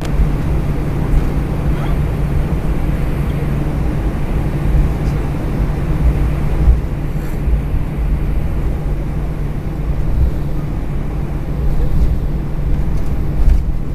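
Steady low hum with a rumble underneath inside an Airbus A320's cabin on the ground before take-off, with a few faint clicks.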